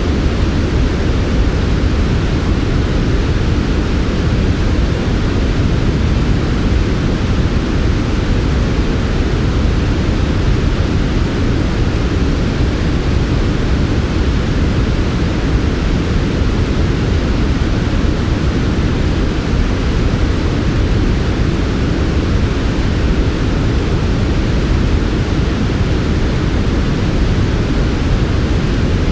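Steady, unchanging generated noise of the softened 'white noise' kind played for sleep: a smooth, even hiss weighted toward the deep end with a muted top.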